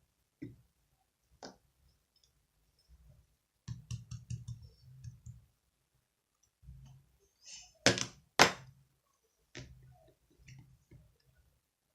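Slime being played with by hand, making scattered clicks, crackles and pops as it is pressed and stretched; the two loudest pops come close together about eight seconds in.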